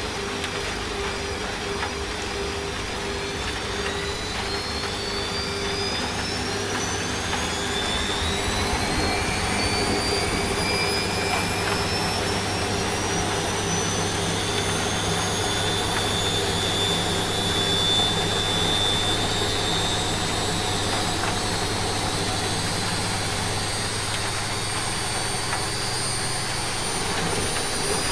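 Washing machine spinning up: the drum motor's whine rises steadily in pitch for about ten seconds, then holds at speed, over a steady hiss and a low hum.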